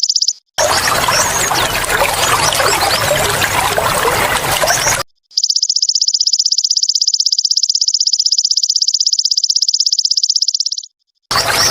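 A belalang emas (golden grasshopper) insect's rapid, evenly pulsed high trill alternates with trickling water, each separated by a brief gap of silence. The trill stops just after the start, water trickles for about four and a half seconds, the trill returns for about five and a half seconds, and the water comes back near the end.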